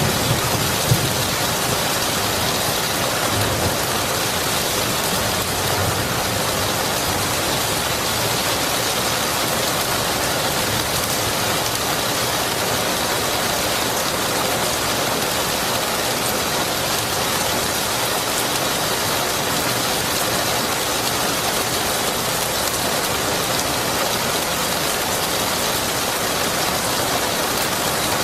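Steady heavy rain falling, an even hiss. The last of a thunder rumble dies away in the first second or so.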